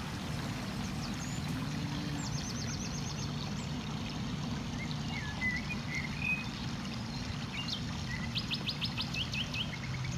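Wild birds calling, with short chirps and two quick runs of rapid, high repeated notes, one about two seconds in and one near the end, over a steady low background rumble.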